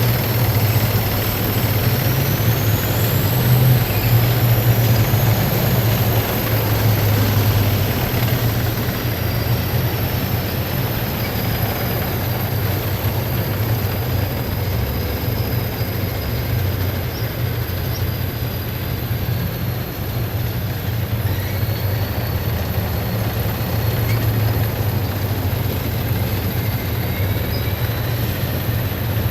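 Column of heavy military vehicles driving past, their engines giving a loud, steady low drone with little change in level.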